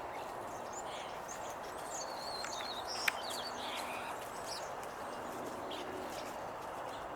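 Small birds chirping, short high arching notes and trills scattered through, over a steady background noise. A single sharp click about three seconds in.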